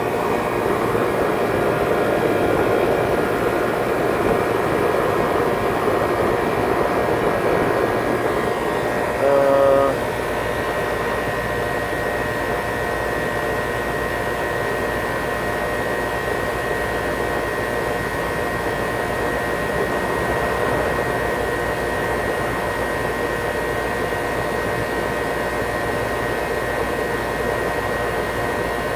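Old Goodman outdoor air-conditioning condenser running steadily, its compressor and multi-speed condenser fan motor humming with a constant tone. The fan is on medium speed, drawing 1.2 amps against a 1.5 amp rating. A short pitched sound cuts in briefly about nine seconds in.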